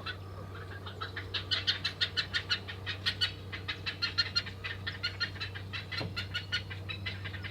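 Black-headed heron chicks begging for food: a rapid, unbroken run of short calls, about six a second, over a low steady hum.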